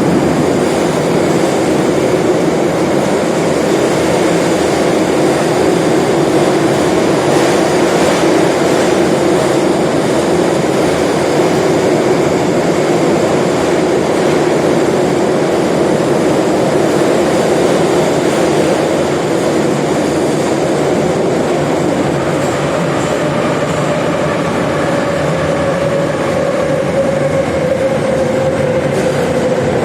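81-717 "Nomernoy" metro train running between stations: loud, steady wheel and running noise. Over the last several seconds a whine falls slowly in pitch as the train slows.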